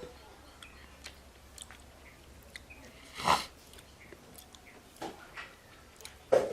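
Close-up chewing and eating, with soft wet clicks and two louder short bites, one about three seconds in and one near the end.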